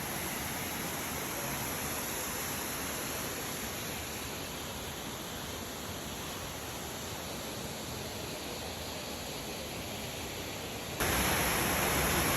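Steady rush of waterfall water in a gorge, an even roar with no rhythm. About eleven seconds in it jumps abruptly louder.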